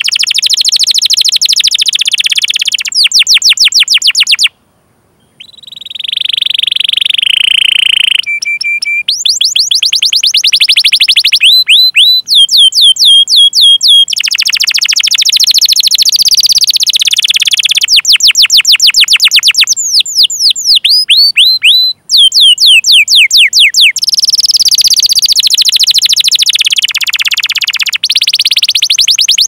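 Canary singing: runs of sharp, sweeping 'cuit cuit' call notes alternating with fast rolling trills, with a brief break about four and a half seconds in followed by a held high note.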